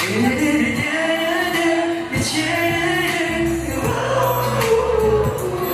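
Live performance of a Thai pop ballad: singing over amplified backing music.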